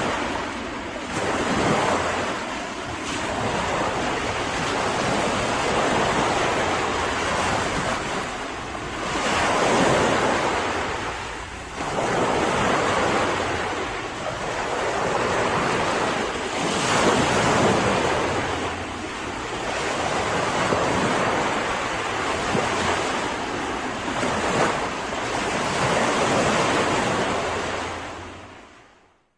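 Mediterranean sea waves breaking and washing onto the shore, the surf swelling and ebbing every few seconds, then fading out at the end.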